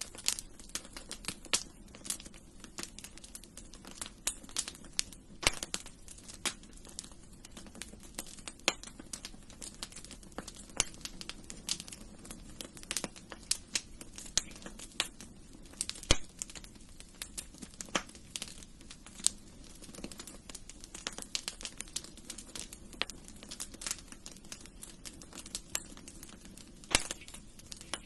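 Wood fire crackling in a fireplace: frequent irregular sharp pops and snaps, a few louder than the rest, over a steady low rumble.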